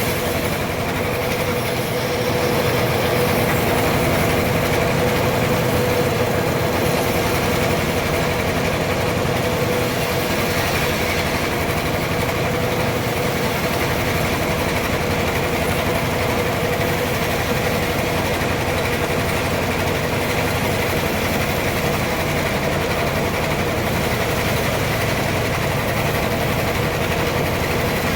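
Sawmill running steadily as it saws a trembesi (rain tree) log into boards: a steady hum over a hiss, a little louder about two seconds in.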